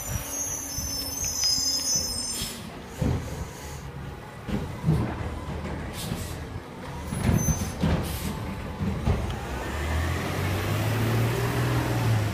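Organics garbage truck at work: the diesel engine running under a string of clunks and bangs, with short air hisses, and the engine rising in pitch and level near the end.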